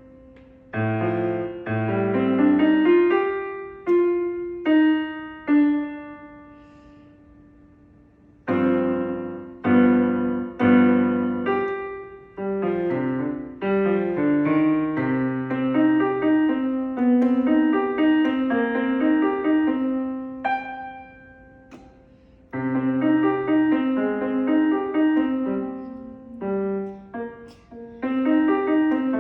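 Solo piano playing a slow piece in chords with low bass notes under a melody. About six seconds in, a chord is held and left to die away before the playing resumes, and there is a short pause about three-quarters of the way through.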